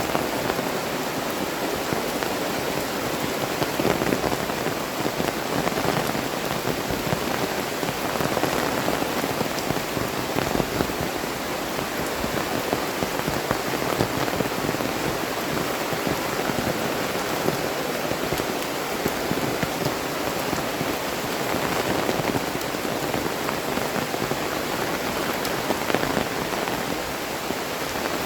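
Heavy tropical rain falling steadily, with many separate drop hits landing close by.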